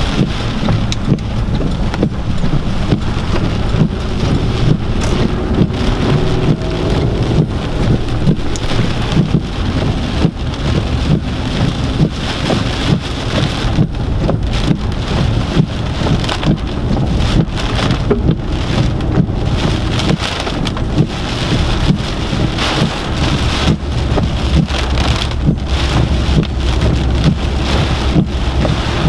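Heavy hurricane rain pelting a moving car, heard from inside the cabin as a dense, steady patter of drops striking, with wind and a low rumble underneath.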